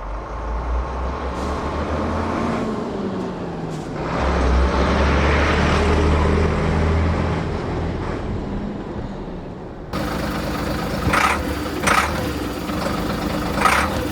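Scania 93M 280 lorry's six-cylinder diesel engine pulling away and driving, its pitch rising and falling as the revs build and drop through gear changes. About ten seconds in the sound changes, and a few sharp clicks or hisses follow.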